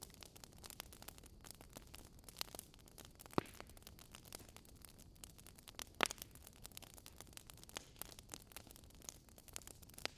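Wood fire burning in a fireplace: logs crackling with frequent small irregular pops over a low hiss, and two louder snaps about three and a half and six seconds in.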